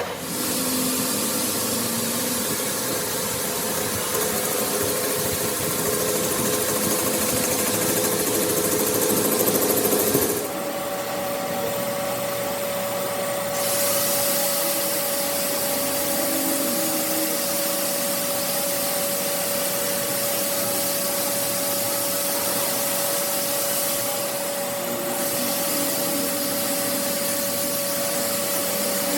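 A power tool running steadily with a constant hum and hiss; the hum shifts slightly higher about ten seconds in, and the hiss drops away briefly twice.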